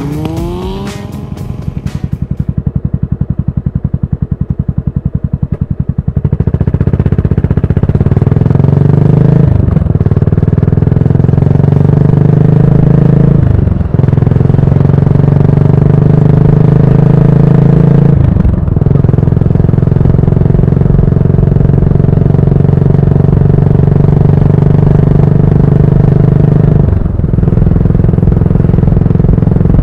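Yamaha SR400's single-cylinder engine through a GOODS tapered-cone muffler. It winds down to a slow, loping thump at low revs, then pulls away and runs up through the gears, with short breaks at each upshift, about four times.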